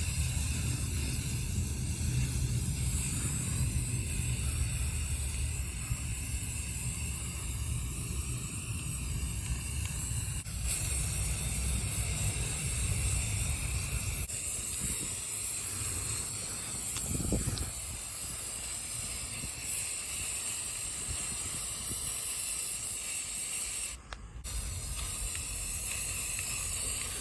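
Aerosol can of spray primer hissing in long, steady passes, with a low rumble underneath for the first half.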